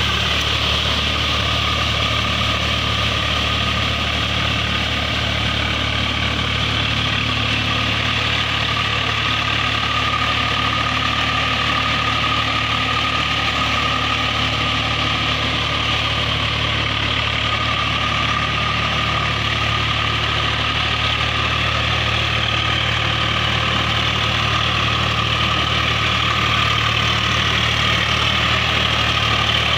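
Tractor diesel engine running steadily for the whole stretch, with no revving.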